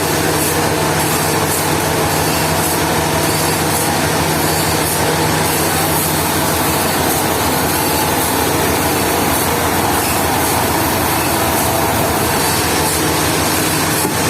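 Sawmill machinery engine running steadily under load, with a loud, even noise spread across the range over its low hum.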